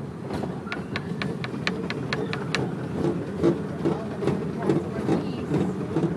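Steam train running, heard from a riding car: a steady rumble, with a quick run of sharp clicks in the first few seconds, then regular thudding beats about twice a second.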